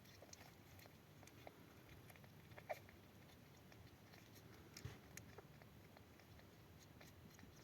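Newborn Pomeranian puppy giving one brief, faint squeak about two and a half seconds in, among faint small clicks and rustles.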